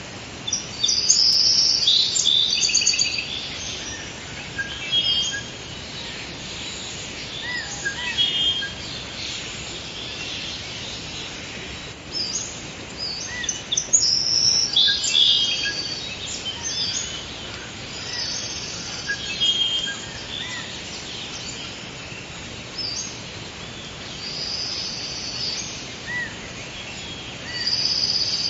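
Several birds calling and singing with short chirps and trills over a steady forest background hiss, busiest about a second in and again around the middle.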